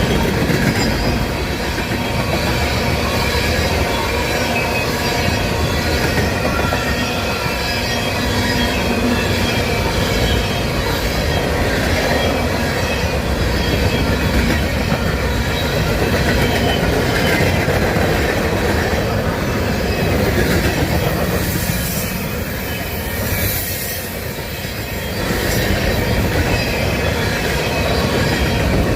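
Freight cars of a CSX train rolling past, their wheels squealing high against the rails and clicking over rail joints. It is briefly quieter about three-quarters of the way in.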